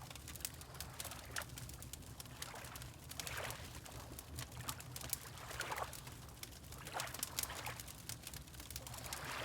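Wood fire crackling with frequent small pops over a low steady rumble, and water lapping in soft swells every second or two.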